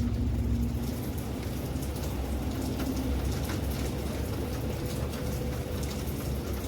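Steady rain falling, with many individual drops striking a surface, over a low steady rumble.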